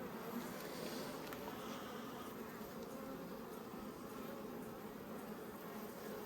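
Honeybees buzzing steadily and softly around an opened nucleus hive.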